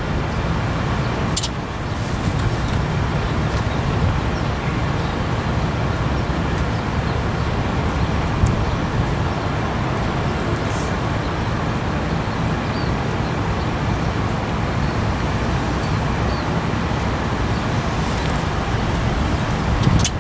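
Steady rumble of road traffic, with a brief sharp click about a second and a half in.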